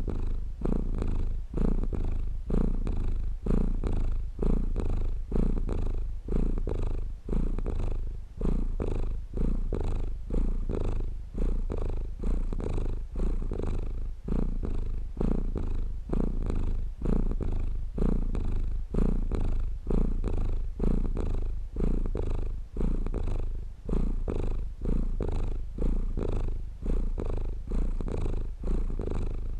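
Domestic cat purring steadily in a low rumble that swells and fades in an even rhythm with its breathing, about once a second.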